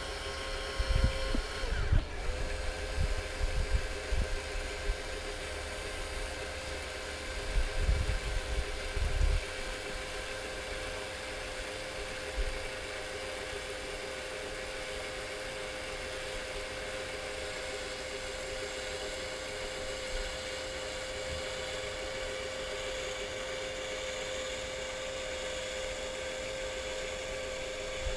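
A small electric motor whining at one steady pitch, with low rumbles during the first ten seconds.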